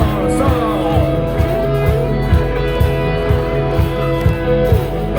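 Live rock band playing an instrumental passage: electric guitar lines over a steady drum beat, with no singing.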